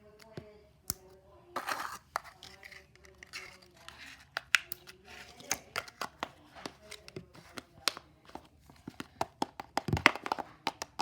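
Slime being handled, squished and poked by hand: irregular sticky clicks and pops, with a crinkly rustle about two seconds in.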